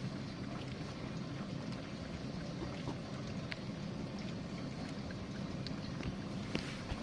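GE dishwasher running a rinse: a steady pump hum under the swish of water spraying inside the tub.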